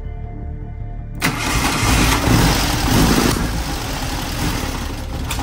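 1967 VW Type 3 air-cooled flat-four cranking briefly on the starter, then catching about a second in and running. It is louder for about two seconds, then settles into a steady fast idle. This is the first start on its twin Solex 32 PDSIT carburetors, freshly rebuilt and not yet adjusted.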